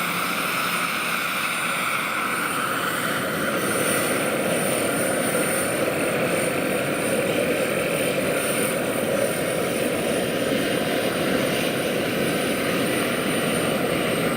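Large-scale RC SA 315B Lama helicopter with a model turbine engine, running steadily: rotor and turbine noise under a thin high turbine whine that drifts slightly lower near the end.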